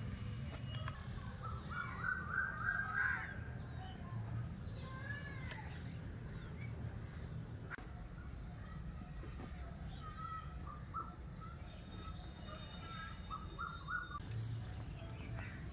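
Several birds calling and chirping, with quick runs of repeated notes a few times through, over a steady low background rumble.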